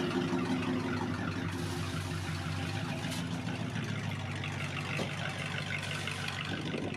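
A car engine idling steadily, a low even hum that fades a little in the second half.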